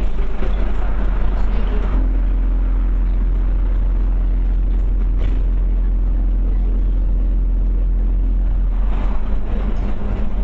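Scania OmniCity bus's diesel engine running at a steady pitch, heard from inside the bus. There is a heavier, rougher rumble in the first two seconds and again near the end.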